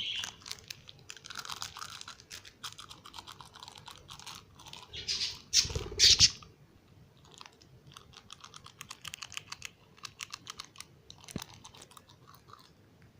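Quick dry clicks and crunching in irregular runs, with a louder bump and rustle about halfway through.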